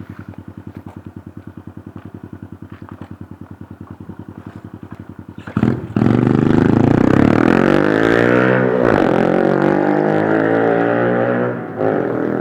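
Honda C90 pit bike's single-cylinder four-stroke engine and exhaust, idling with an even pulse, then revved hard about halfway in. The pitch rises and falls through the revs, drops back near the end, and is briefly blipped again.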